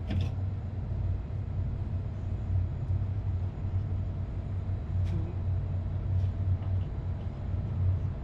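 Steady low hum of running HVAC plant-room machinery, with a sharp metallic click at the start and another about five seconds in.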